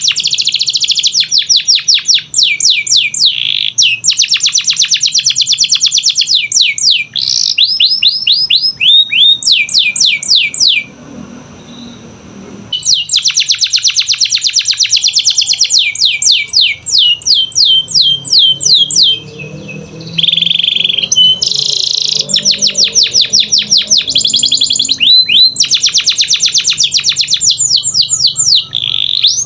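Canary singing a long song of fast trills, rolls of rapidly repeated sweeping notes, breaking off for about two seconds in the middle before starting again.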